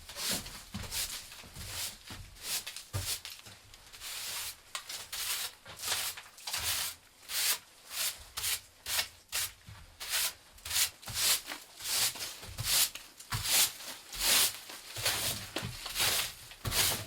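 Rhythmic strokes of something rubbing by hand over a surface, in the manner of sanding or scraping. The strokes are uneven at first and settle to about two a second.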